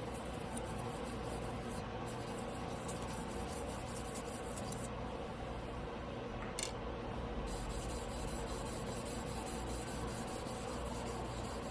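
A steel yanagiba blade being hand-sharpened on a whetstone: a steady rubbing and grinding of steel on stone, with one short click about six and a half seconds in.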